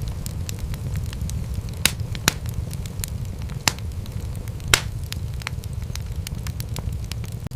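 Wood fire crackling in a fireplace: irregular sharp pops and snaps over a steady low rumble of the flames, with a few louder pops around the middle.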